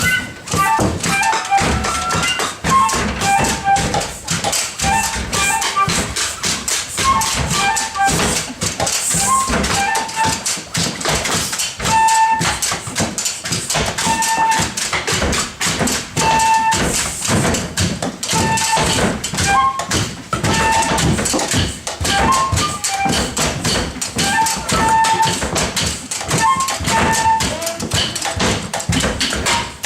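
A group improvising with rapid, dense percussive taps and knocks, over which a flute-like instrument or whistle plays short piping notes that repeat every couple of seconds.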